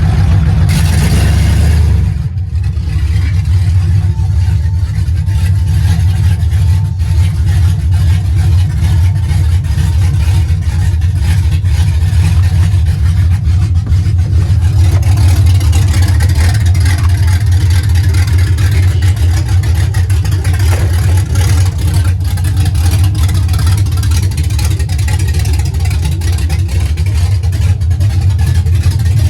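Shop truck's engine running loudly and steadily, with a rapid low pulsing. A brief rush of noise comes in the first couple of seconds, then it settles to an even run.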